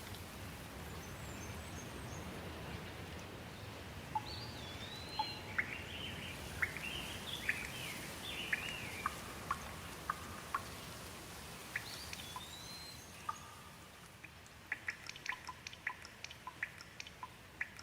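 Steady rain with birds calling over it in short whistled, gliding notes. Near the end the rain thins out, leaving a quick run of short ticks.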